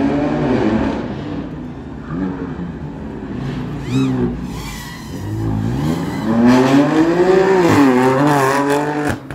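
BMW M2 Competition's twin-turbo straight-six revving up and down as the car is driven hard around a cone course, with a short tyre squeal about four seconds in. The engine note climbs and is loudest as the car comes past close near the end.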